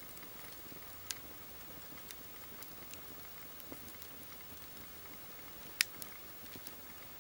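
Wood campfire crackling: irregular sharp pops and snaps from the burning logs over a soft steady hiss, with the loudest crack about six seconds in.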